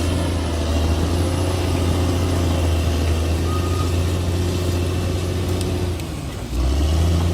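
Bulldozer's diesel engine running steadily with a deep, low hum; it dips briefly about six seconds in, then picks back up.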